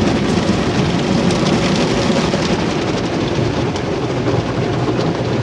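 Automatic car wash water spray pouring steadily over the car, heard from inside the cabin as a loud, even rain-like noise.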